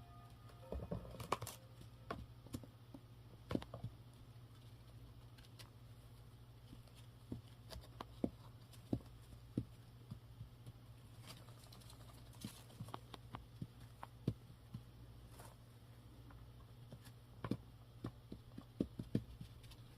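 Faint, scattered taps and scratches: a six-week-old Indian ringneck parrot chick shuffling and preening in its box, claws and beak on the box. A steady low hum sits underneath.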